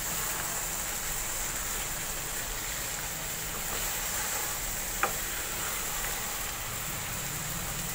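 Radish and spinach sabzi sizzling in a nonstick wok as it is fried down, stirred with a wooden spatula, with one sharp tap about five seconds in.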